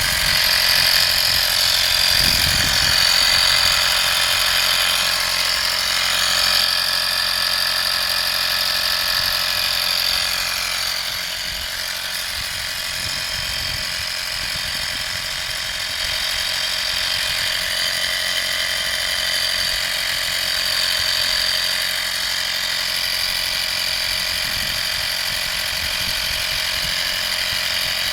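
Vaper 12V portable air compressor (model 55203) running steadily, with a constant high-pitched whine over its motor noise, slightly quieter for a few seconds near the middle.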